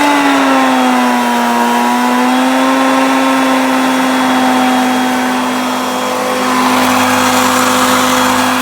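Hoover Concept Two upright vacuum cleaner running on its low speed setting: a steady motor hum that settles to an even pitch in the first second, with the rush of air growing louder over the last couple of seconds.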